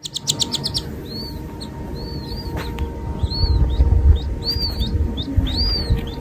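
Small bird chirping: a quick rattle of clicks at the start, then short arched chirps once or twice a second, over a low rumbling noise that swells about two-thirds of the way through.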